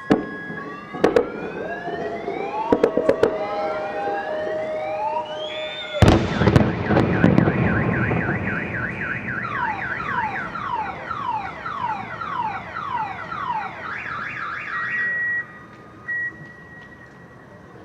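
Fireworks whistling as they climb, with sharp cracks and one loud bang about six seconds in. After the bang a car alarm wails in fast repeating sweeps, then holds steady tones before stopping, likely set off by the blasts.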